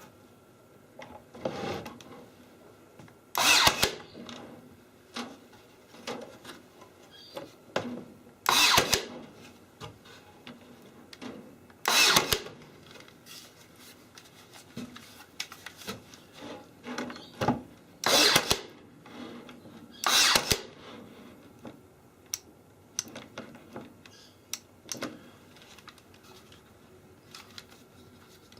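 Power drill run in short bursts of about half a second to a second, five times, with small clicks and knocks of handling in between.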